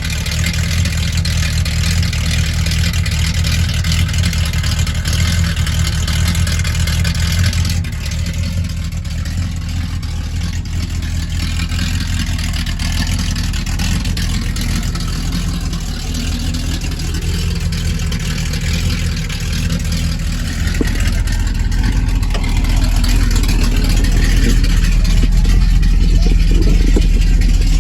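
Car engine idling while warming up after a start, a steady low rumble; the sound changes about eight seconds in, and the low rumble grows louder over the last several seconds.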